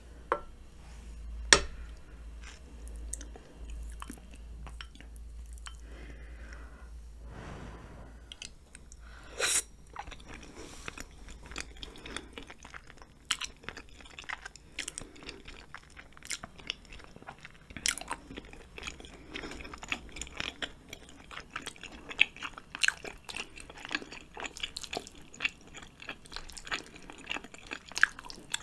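Close-miked chewing and eating of spicy ramen noodles and chewy rice cakes: irregular wet mouth clicks and smacks that grow denser in the second half. A single sharp click about a second and a half in is the loudest sound, with another strong one near the middle.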